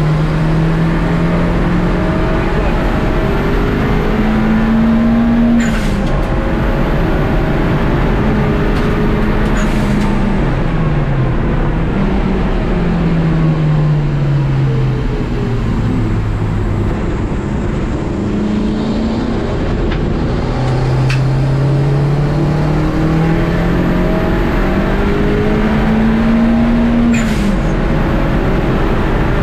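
Racing car engine heard from inside the cockpit, revving up in pitch and dropping sharply at each upshift, about three times. Its pitch falls steadily in the middle as the car slows for a corner, over constant road and cabin noise.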